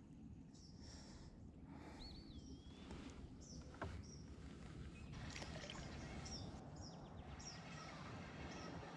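A songbird repeating a short, high, falling chirp about once a second, from about five seconds in, over faint steady outdoor background noise. A single whistled call comes about two seconds in, and a brief click near four seconds.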